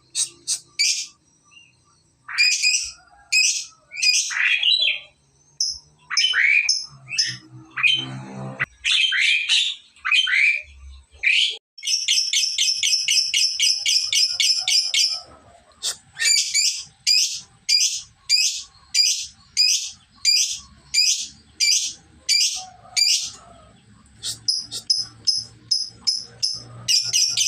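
Lovebird calling: sharp, high falling calls, then a few seconds of rapid chattering notes in an unbroken run (the 'ngekek' trill), followed by a string of evenly spaced single calls and another rapid run near the end. It is a young bird learning to ngekek, its trills starting to grow longer.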